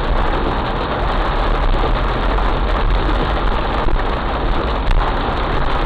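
Heavy rain falling, a dense steady hiss with a strong low rumble underneath.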